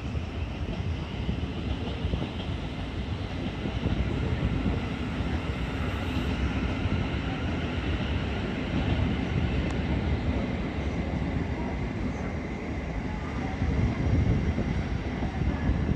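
A train running along the rails at a station: a steady rumble of wheels on track with a faint thin whine above it, swelling slightly twice.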